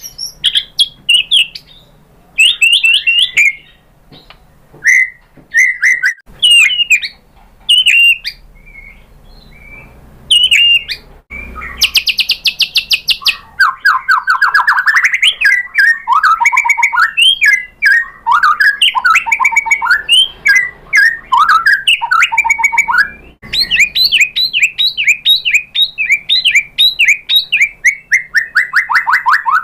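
White-rumped shama singing: separate short whistled and chattering phrases for about the first eleven seconds, then an almost unbroken run of fast trills, rattles and rapid notes, ending in a quick series that falls in pitch.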